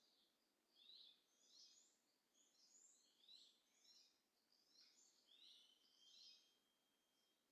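Faint birdsong: a bird chirping over and over, short high notes about once a second, with a thin held whistle briefly near the end.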